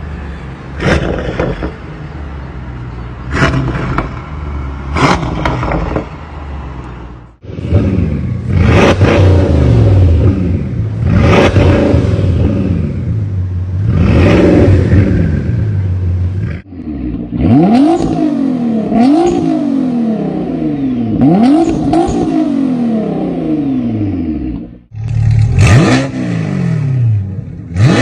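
High-performance car engines revved hard through their exhausts, several clips cut one after another: each has repeated blips where the engine note leaps up and falls back, two to four times per clip. The cars are AMG, Lamborghini and Bugatti models.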